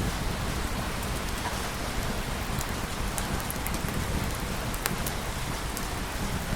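Steady heavy rain falling on a surface, an even hiss with scattered sharp drop ticks.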